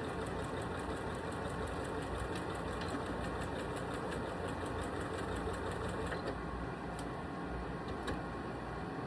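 Janome Skyline S3 computerised sewing machine stitching quilting lines, its needle strokes repeating rapidly and evenly; the stitching stops about six seconds in, followed by a couple of single clicks.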